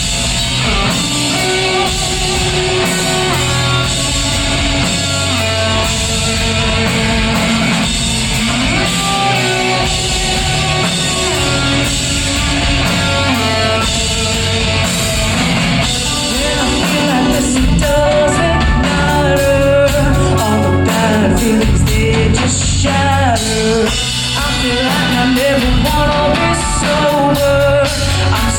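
Rock band playing live, with a lead singer over guitars and drums, loud and continuous.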